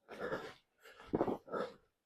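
Hard panting, three quick, rough breaths in about two seconds.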